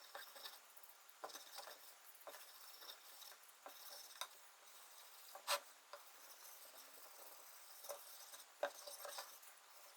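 Faint rubbing of beeswax finish into an end-grain wooden cutting board, with scattered light taps and scrapes, one a little louder about halfway through.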